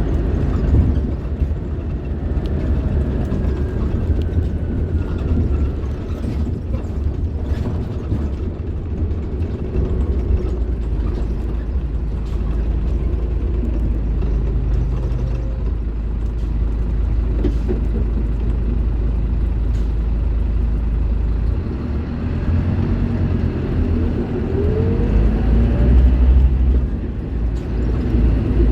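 Scania K310IB bus's diesel engine running while the bus is under way, a steady deep drone; near the end its pitch rises as the engine is pulled up through the revs.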